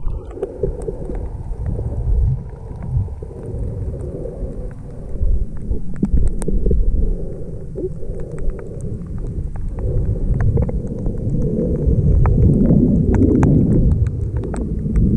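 Muffled underwater sound as heard by a submerged camera while snorkeling: a continuous low rumble of moving water, with scattered faint clicks throughout.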